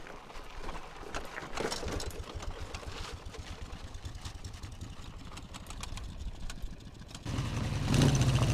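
Dnepr MT-10-36 motorcycle's flat-twin engine being turned over with an even, low pulsing, then catching about seven seconds in and running louder and steadily.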